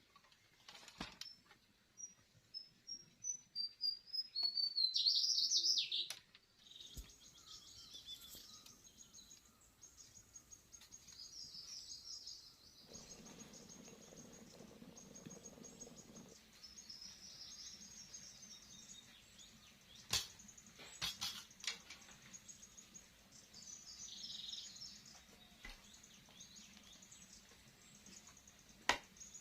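Wild birds singing and chirping: a quickening run of short high notes in the first few seconds, ending in the loudest phrase, then repeated high chirps throughout. A few sharp clicks or knocks come about two-thirds of the way through and near the end.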